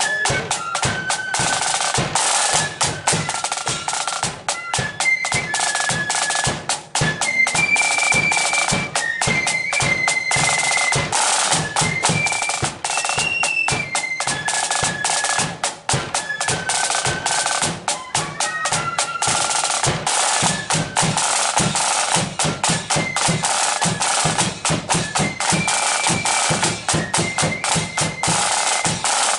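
Marching flute band playing a march: flutes carry a stepping unison melody over rapid snare drum rolls and a bass drum beat.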